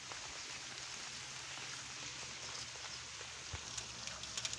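Rain falling on the chicken coop's roof: a steady hiss, with sharper individual drop ticks coming through from about three and a half seconds in.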